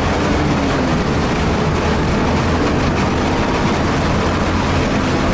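Car engine pulling hard at speed in fifth gear, with road and wind noise filling the cabin at an even, loud level.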